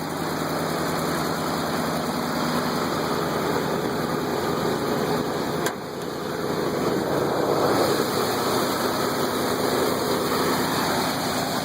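1977 Ford F150's 351M V8 idling steadily on a cold day, its first run of the day, with a single short click about halfway through and a slight rise in level after it.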